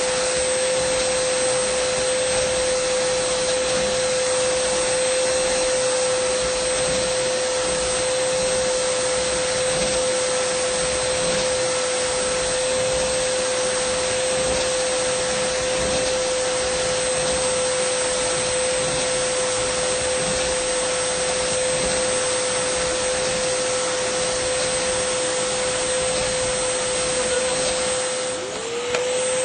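Dyson vacuum cleaner running steadily: a loud rushing hiss of air with a high motor whine. About a second before the end, the whine briefly sags in pitch and level, then recovers.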